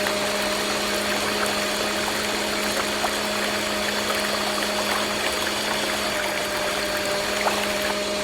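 Small DC motor of a DIY model machine running steadily with an even hum, with light ticks throughout.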